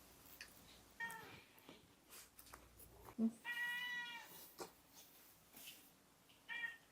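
A cat meowing three times, short calls about a second in and near the end with a longer, steady meow in the middle; a few faint knocks between them.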